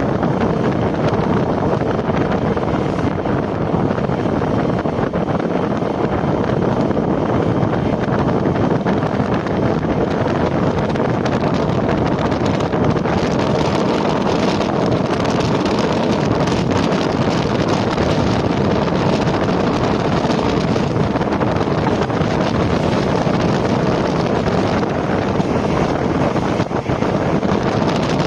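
Loud, steady wind rushing over the microphone at the open window of a moving KiHa 40 diesel railcar, with the railcar's running noise underneath.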